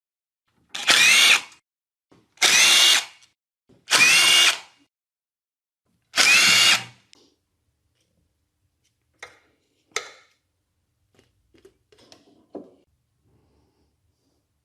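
Cordless power driver running in four short bursts, each with a slightly rising whine, as bolts are backed out of the valve covers on a Kohler engine. A few light metal clicks follow near the end.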